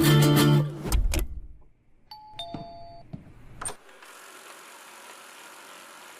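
Background music ends about a second in; then a robot vacuum cleaner gives a short electronic start-up chime of a few held tones, a click follows, and from about four seconds in its motor and brushes run with a steady whirring hiss.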